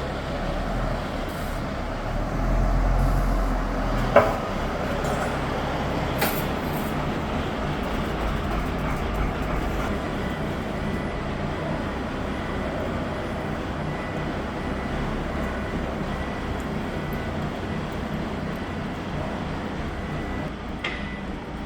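Heavy 16-ton forklift running steadily under load, its engine rumbling louder for a couple of seconds early on. There is a single sharp metallic clank about four seconds in and a lighter knock a couple of seconds later.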